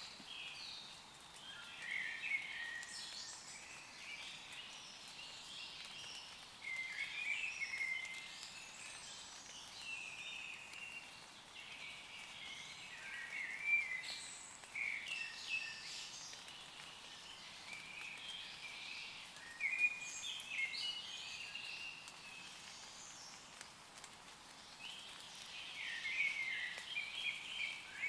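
Woodland birds singing short, chirpy song phrases every few seconds over a faint steady hiss of light rain on leaves.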